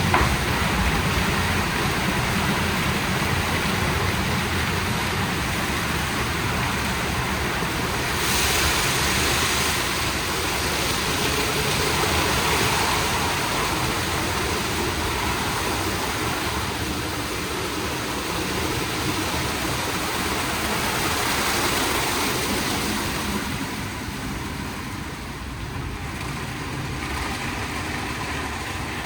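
WashTec SoftCare² Takt rollover car wash running a wash cycle: a steady hiss of water spraying, with machinery noise under it. The spray gets a little louder and brighter about eight seconds in.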